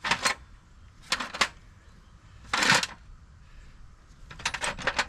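Small metal hand tools, Allen keys, being handled and tried. There are separate sharp clicks and clatters, a short scraping rustle in the middle, and a quick run of clicks near the end.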